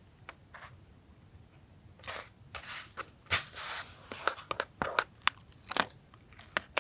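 Paper being handled for a collage: short rustles, tearing and sharp little taps and clicks, quiet for the first two seconds and then coming thickly until near the end.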